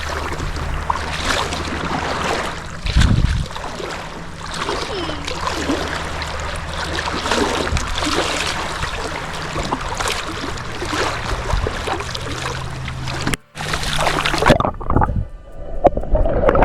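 Water splashing and wind noise around a paddleboard, under background music that holds low notes. The sound drops out for a moment about thirteen seconds in and changes after it.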